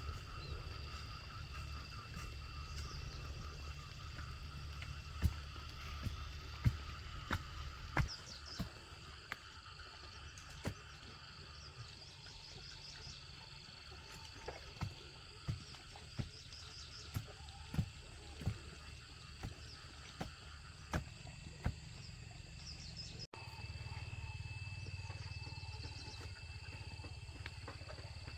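Sharp knocks at irregular intervals, roughly one a second at times, over a steady high drone of forest insects and a low rumble.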